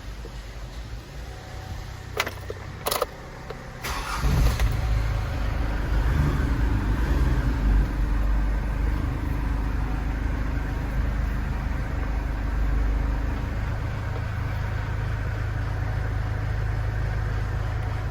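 Two sharp clicks, then a Mitsubishi Canter truck's engine starts about four seconds in and keeps running steadily at idle.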